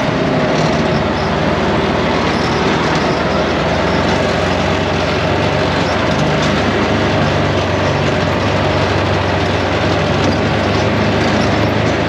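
An off-road ATV running steadily while driving, its engine drone mixed with wind and tyre noise.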